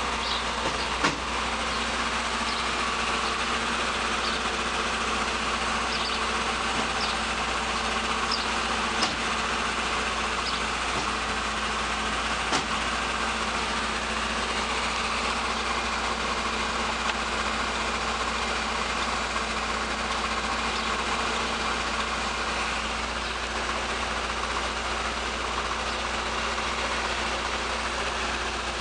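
1973 Opel GT engine idling steadily. A few short, sharp clicks stand out over it near the start and about a third of the way in.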